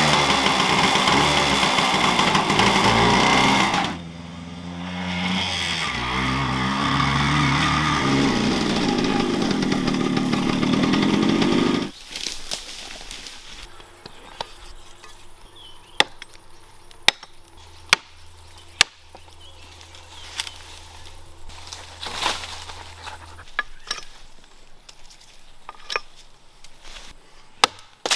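A small engine running at high revs. It dips briefly about four seconds in, rises again in pitch and stops suddenly about twelve seconds in. A run of sharp, separate knocks and clicks follows over a faint low hum.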